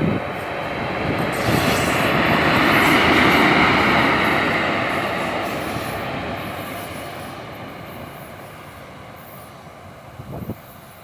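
Train with a ChS2T locomotive passing on the rails: running and wheel noise swells to a peak about three seconds in, then slowly fades away. A few short knocks come near the end.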